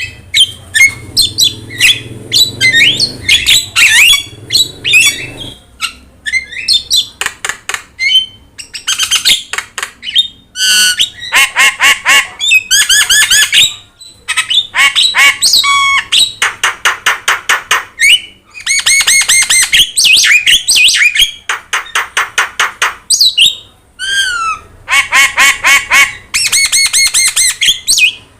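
Javan myna (jalak kebo) in full song: loud, rapid runs of harsh squawking and chattering notes mixed with short gliding whistles, broken by brief pauses.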